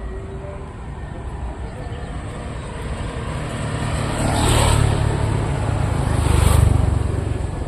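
Two motor vehicles passing close by one after the other, the first loudest about four and a half seconds in and the second about two seconds later, over a steady traffic rumble.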